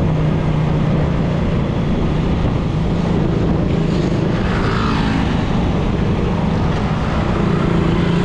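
Suzuki Raider 150's single-cylinder four-stroke engine running at a steady cruising pace, heard from the rider's seat with a constant rush of wind and road noise.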